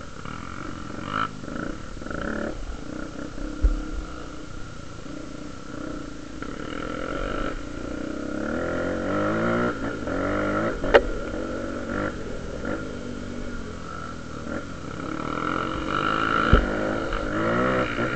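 Honda Tornado trail motorcycle's single-cylinder four-stroke engine, enlarged to 293cc, revving up and down over and over. A few sharp knocks stand out above it.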